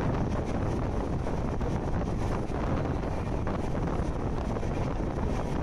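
Wind buffeting the microphone on a moving train, over the train's steady running rumble along the track.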